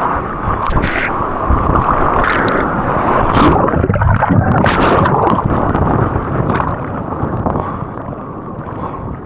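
Ocean whitewater rushing and splashing loudly around the camera's microphone as a breaking wave washes over the surfer, easing off near the end.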